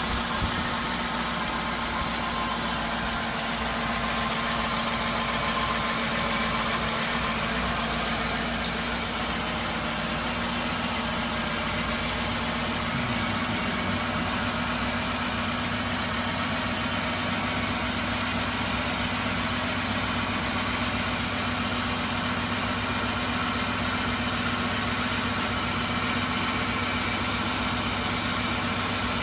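A 2002 Lincoln Town Car's 4.6-litre V8 idles steadily after an intake manifold replacement, with an even hum that does not change.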